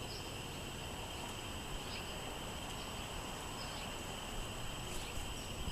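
Wind rumbling on the microphone, with short high bird chirps every second or so over a steady high hiss.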